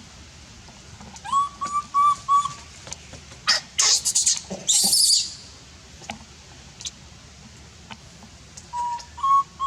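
Baby monkey calling with short, high, whistle-like cries: a run of four about a second in and more near the end. In the middle it breaks into a loud, shrill screech lasting over a second.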